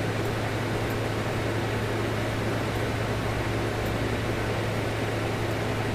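Steady low hum with an even hiss over it: constant background noise, like a fan or electrical hum picked up by the microphone.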